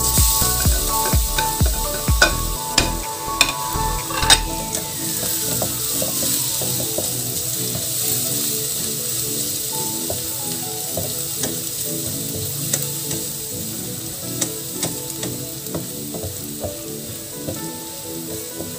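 Minced garlic and onion sizzling in hot cooking oil in a wok as they go in, with a metal spatula clicking and scraping against the plate and pan for the first few seconds; then a steady frying sizzle as they are stirred, easing slowly.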